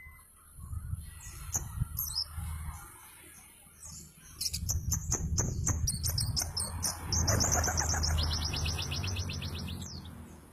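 White-eye (pleci dakun) singing: scattered high chirps and whistles, then a rapid string of sharp notes about halfway through, then fast rolling trills through the second half. A low rumble runs beneath.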